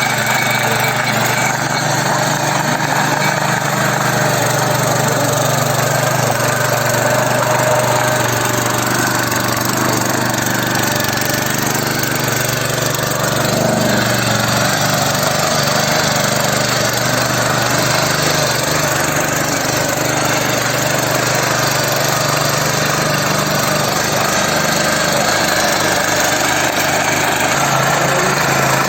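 Mini power tiller's 7.75 HP engine running steadily under load while tilling soil, its pitch sagging briefly and recovering about halfway through.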